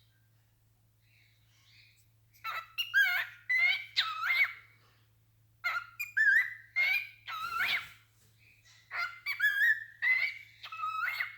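Pet cockatiel whistling its song: after about two seconds of quiet, three runs of short whistled notes that slide up and down in pitch.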